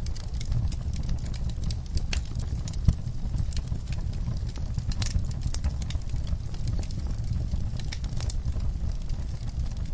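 Wood fire burning in a fireplace: a steady low rumble with irregular small crackles and a louder pop about three seconds in.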